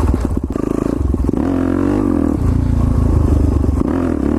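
Suzuki DR-Z400SM supermoto's single-cylinder four-stroke engine running on a trail ride, revs changing with the throttle: the pitch climbs about one and a half seconds in, drops back, then runs steadier.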